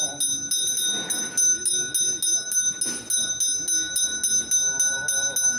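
A metal handbell rung rapidly and without pause, about five strikes a second, its high ring sustained between strokes.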